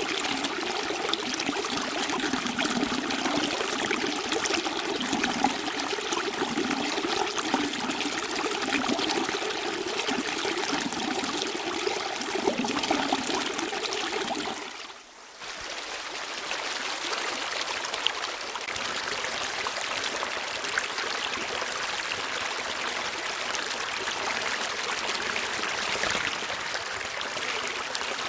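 Running water trickling steadily. About halfway through it briefly drops away and comes back with less of its lower gurgle.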